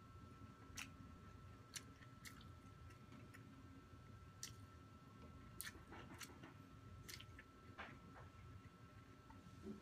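Faint close-up chewing of a mouthful of roast chicken and rice eaten by hand, with scattered small wet clicks and crackles, over a faint steady high hum.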